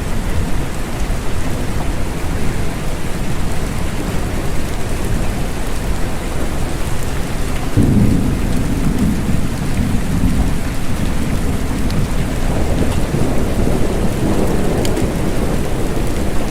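Steady rain falling, with a low rumble of thunder that starts suddenly about halfway through and rolls on for several seconds.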